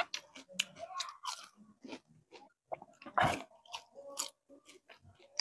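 Close-up chewing and crunching of crispy fried bisugo (threadfin bream) eaten by hand, in irregular crackly bites with wet mouth sounds; the loudest crunch comes a little past three seconds in.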